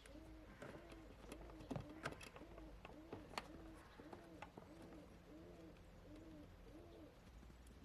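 Faint bird cooing, a short rising-and-falling call repeated about twice a second, with a few light clicks.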